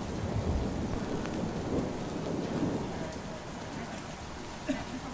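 Steady rain on a roof, with a low rumble of thunder over the first few seconds that eases off. A single sharp click sounds near the end.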